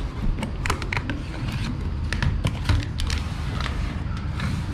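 Irregular light clicks and taps, as of small tools or parts being handled during installation work, over a steady low rumble.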